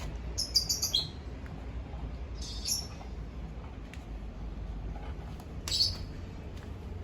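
Small bird chirping in three short bouts: a quick run of high chirps in the first second, another a little before the middle, and one more about six seconds in.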